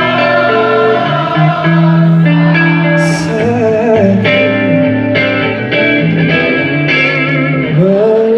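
Live band music led by guitar, with held chords and notes between the sung lines of a pop song.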